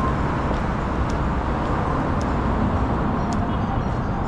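Steady city-street traffic noise, a continuous low rumble of vehicles going by, with a few faint light clicks over it.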